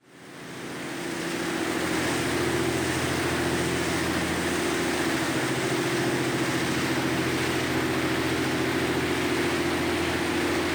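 A steady mechanical drone: a low hum of several tones under a hiss, fading in from silence over the first two seconds.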